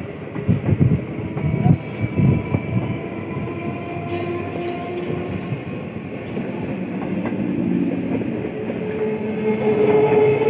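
Electric suburban local train passing close by, its wheels rumbling and knocking over the rail joints, with thin steady squealing tones over the rumble that grow louder near the end.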